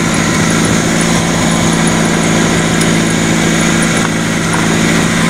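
Volkswagen Caribe 1.6 four-cylinder engine idling steadily with the hood open, held at a slightly raised idle after it had stalled.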